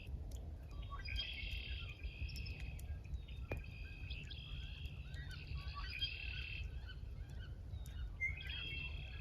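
Songbirds singing: several high trilling phrases a second or two apart, over a faint low rumble.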